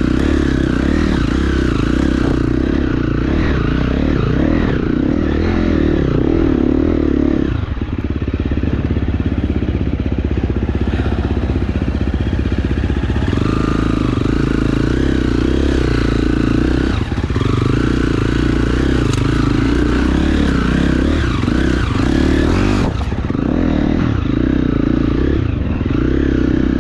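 KTM enduro dirt bike engine running under load on a trail ride, the engine note dropping off and picking up again several times as the throttle is worked.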